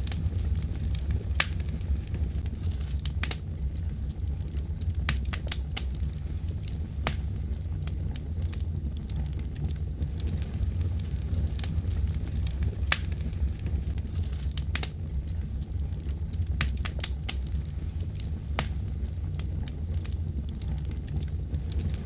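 Fire crackling: sharp pops and snaps at irregular intervals over a steady low rumble.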